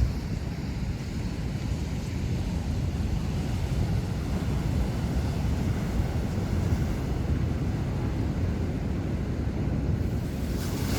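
Heavy ocean surf rumbling as big waves break, with wind buffeting the microphone. A brighter hiss of breaking water rises near the end.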